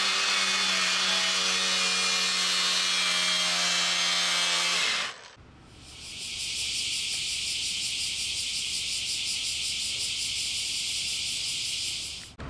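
An electric power tool working wood runs with a steady hum and stops about five seconds in. It is followed by a steady high hiss with a fast, even pulse.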